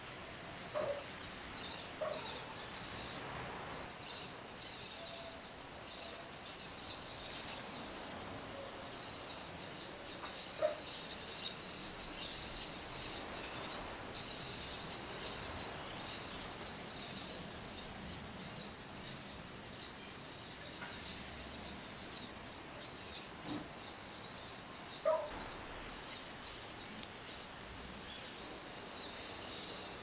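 A bird chirping again and again: a short, high call falling in pitch about once a second, strongest in the first half and fainter after. A few soft knocks come now and then.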